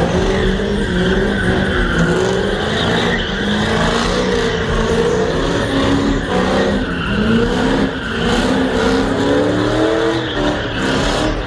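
Car engine revving up and down over and over with tires squealing, as in a burnout or donuts.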